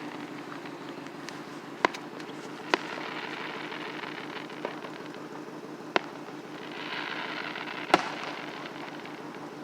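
Fireworks going off: single sharp bangs every second or two, the loudest near the end, over a steady low background noise. A stretch of crackling comes shortly before the loudest bang.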